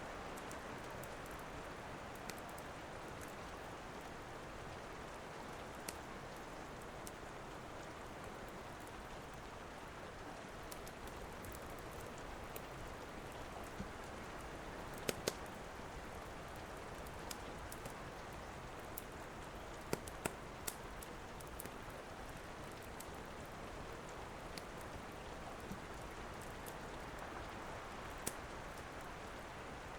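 Steady rain falling, with scattered sharp crackles and pops from a wood fire in a fireplace. A few louder pops come about halfway through and again near the end.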